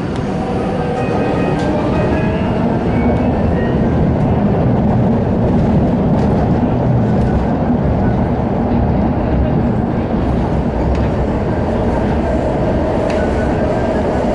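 CRRC Changchun-built MTR electric train running along the line, heard from on board: a steady rumble of wheels and running gear, growing a little louder over the first few seconds, with a faint motor whine later on.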